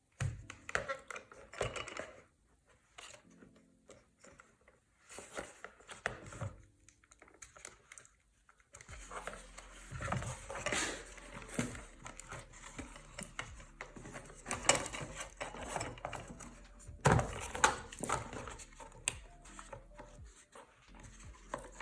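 Irregular clicks, knocks and rustling as hands handle and open the plastic shell of an auto-darkening welding mask to get at its batteries. A low steady hum comes in about nine seconds in.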